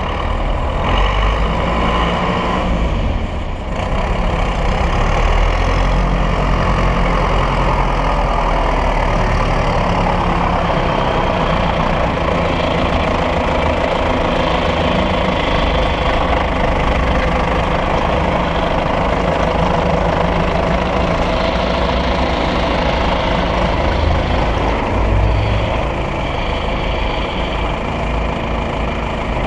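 John Deere 2850 tractor's diesel engine running steadily, with a brief dip in level a few seconds in.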